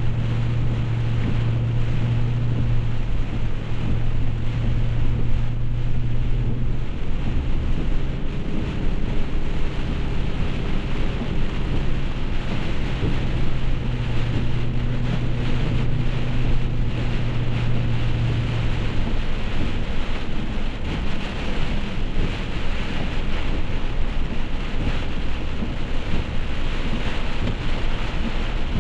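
Heavy rain and the steady road noise of a car driving through it. A low hum from the car runs through the first two-thirds and then stops.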